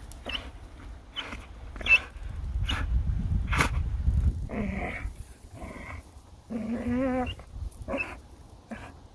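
A dog growling and whining while hanging by its jaws from a swinging hold, with short squeaks about once a second and a longer wavering growl near the end.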